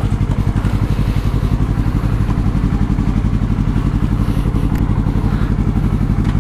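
Yamaha R3's parallel-twin engine idling steadily.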